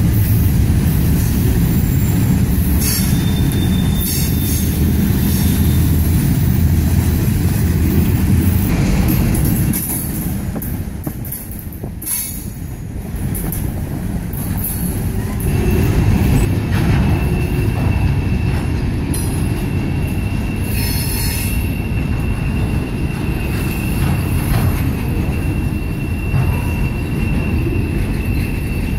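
Freight cars rolling past at close range, a steady low rumble of wheels on rail. About halfway through, a thin, steady high-pitched wheel squeal sets in and carries on under the rumble.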